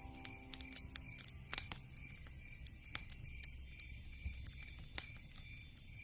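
Campfire crackling, with irregular sharp pops over a low rumble of burning wood. Behind it, a high chirp repeats evenly about three times a second.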